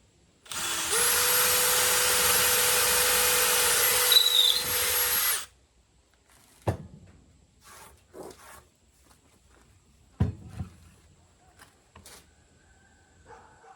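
A handheld power tool runs steadily for about five seconds, then stops. A few separate knocks follow as pieces are handled.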